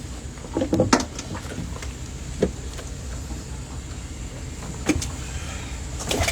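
A steady low rumble with a few scattered knocks and thumps on a boat as catfish are handled and put back into a holding well.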